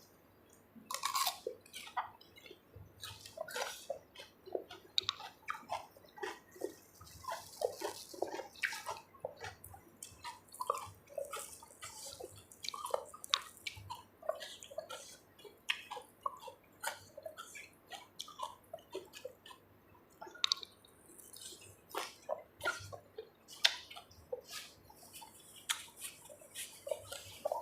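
Close-miked eating: wet chewing, smacking and slurping of mouthfuls of food, in quick irregular clicks.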